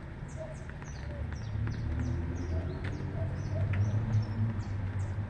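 A group of small birds chirping: many quick, high-pitched descending chirps overlapping throughout, over a steady low rumble.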